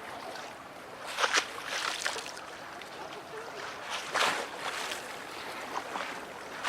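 Small harbour waves lapping and splashing against a quay wall, with two louder splashes about one and four seconds in.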